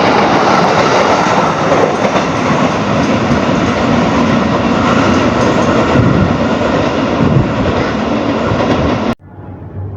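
A train passing close by at speed, loud and steady, cutting off suddenly near the end to a much quieter background.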